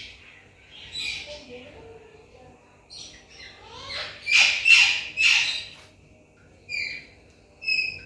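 Birds calling in short, high chirps, with a loud run of three falling calls about four to five seconds in and a few brief chirps near the end.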